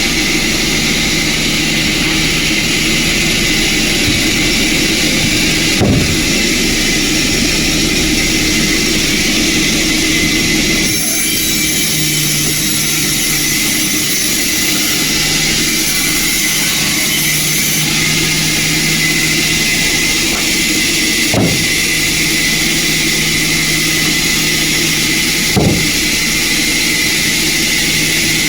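Sawmill machinery running steadily: a loud, even, hissing-whining noise over a low hum, its tone shifting slightly about a third of the way in, with three short knocks.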